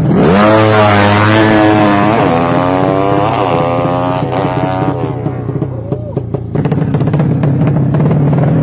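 Drag-racing motorcycle with a 200 cc sleep engine launching hard. It revs up sharply and shifts up three times, about a second apart, then fades as it pulls away. Other engines idle underneath.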